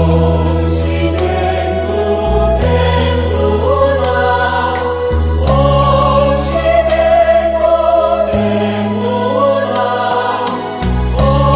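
A choir singing a Buddhist hymn in praise of Guanyin Bodhisattva over held low accompaniment notes, with a steady beat of short percussive clicks.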